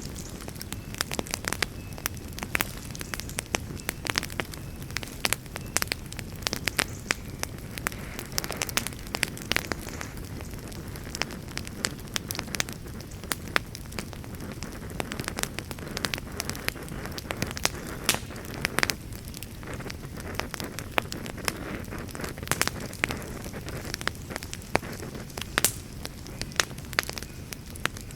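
Fire burning in a fireplace, crackling steadily with frequent sharp pops and snaps over a low, even rumble of the flames.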